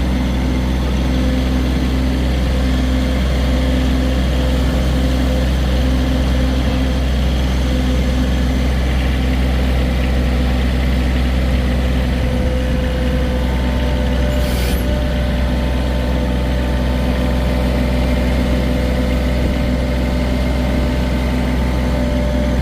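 John Deere 1023E compact tractor's three-cylinder diesel engine running at a steady speed. A short hiss cuts in briefly about two-thirds of the way through.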